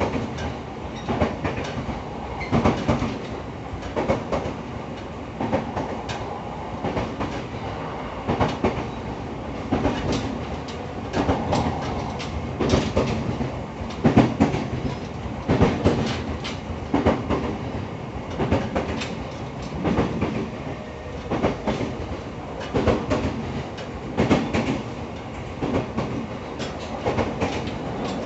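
EV-E301 series ACCUM battery electric train running at speed, heard from inside the car: steady rolling noise with sharp clickety-clack from the wheels crossing rail joints, recurring about every second.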